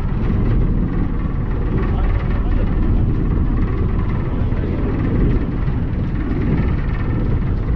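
Steady low rumble of the 1951 ferry Thomas Rennie under way, its engine running.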